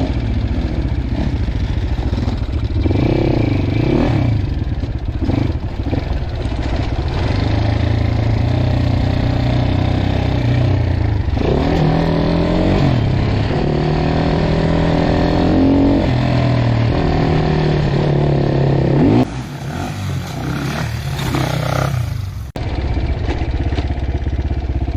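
Dirt bike engine running and revving up and down as it is ridden, with some clatter. The sound changes abruptly twice in the last few seconds.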